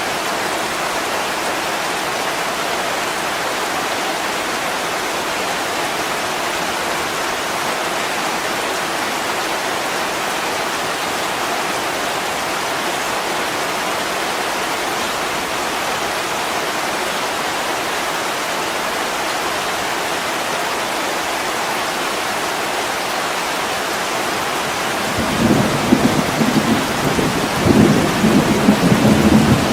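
Steady heavy rain falling on a window, an even hiss. About 25 seconds in, low rolling rumbles of thunder join it and swell unevenly.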